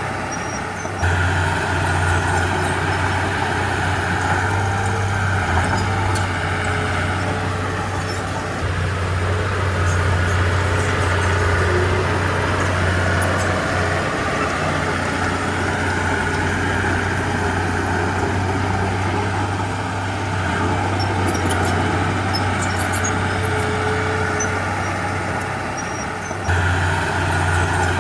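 Diesel engine of a Komatsu D31P crawler bulldozer running steadily under work, a deep continuous drone that steps up suddenly about a second in and again near the end.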